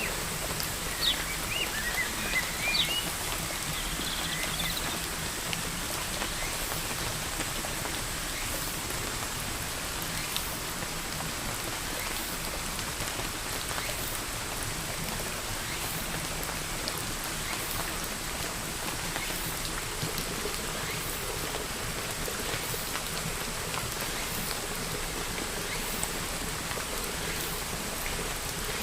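Steady rain falling, with scattered sharp drop ticks. A few short bird chirps sound in the first three seconds.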